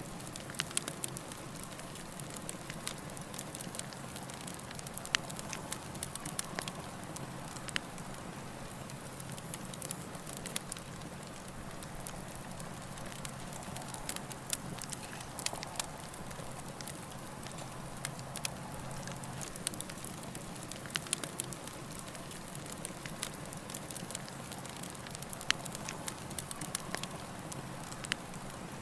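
Campfire burning with a steady hiss and frequent sharp crackles and pops of varying loudness.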